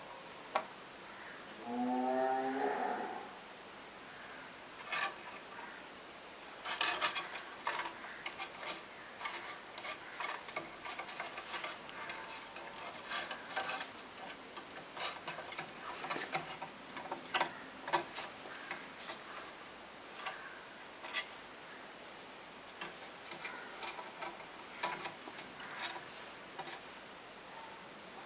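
A kitten meows once, about two seconds in, in a single call of about a second. From about five seconds on comes a long run of light, irregular clicks and taps from the kitten playing.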